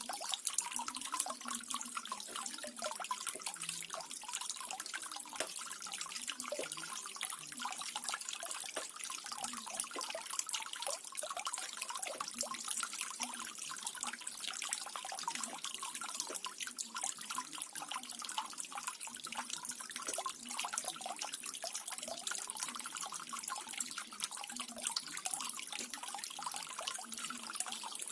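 Small decorative waterfall: water trickling and splashing steadily, with many fine drips and splashes over a continuous rush.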